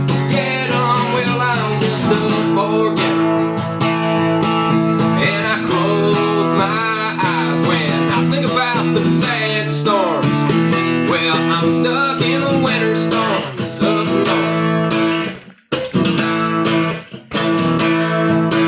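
Instrumental stretch of a song on acoustic guitar, strummed, with a melody line that bends in pitch. The music drops out briefly about fifteen seconds in, then plays on and stops at the end.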